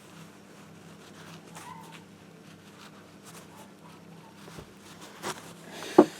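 Faint handling noises as a magnetic gearbox drain plug is cleaned of iron filings, over a low steady hum. A click comes just before the end, then a sharp knock right at the end.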